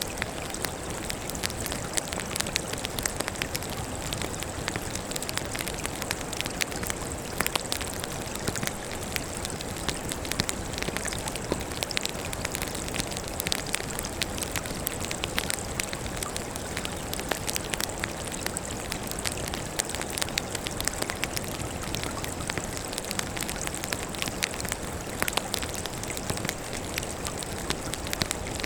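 Campfire of burning firewood crackling, many small sharp pops and snaps scattered irregularly over a steady hiss.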